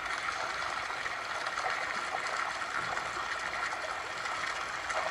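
Steady splashing rush of a water fountain, played back through a speaker from a streamed video.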